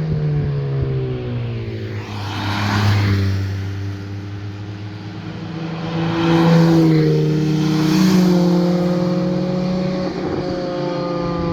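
Car engines and exhausts as cars drive past one after another, with a louder pass about three seconds in and another around seven to eight seconds in. The engine notes fall in pitch as the cars go by.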